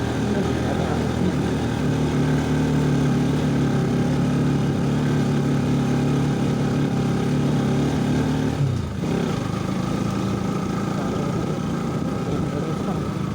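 Motorcycle engine running steadily under way in a low gear over a rough road. About eight and a half seconds in, the revs drop sharply and it settles into a lower, steady note.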